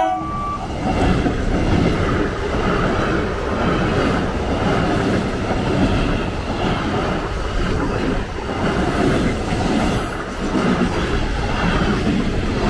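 Electric multiple unit (EMU) suburban train running past close by at speed: a steady loud rumble and clatter of steel wheels on the rails. A horn blast cuts off just as it begins.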